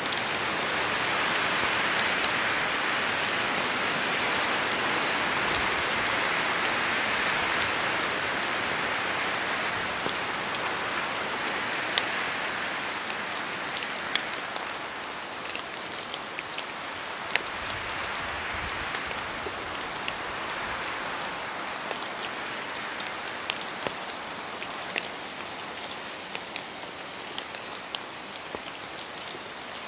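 Steady rain falling in a forest, a dense hiss with many sharp individual drop hits standing out, easing a little in loudness toward the end.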